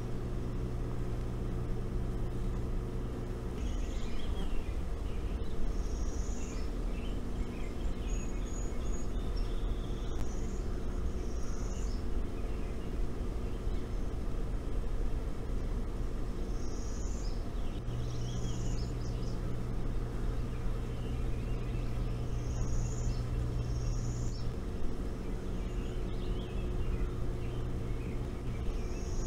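Small birds chirping, short high calls mostly in pairs every few seconds, over a steady low hum.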